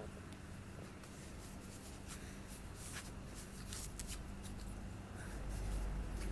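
Faint scattered scratching and rustling, a series of short scrapes at irregular intervals over a steady low electrical hum, with a low rumble swelling near the end.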